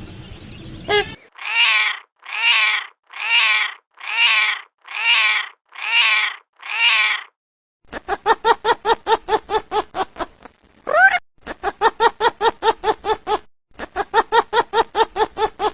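An animal calling: seven evenly spaced calls about a second apart, then a long run of quick, short, repeated calls.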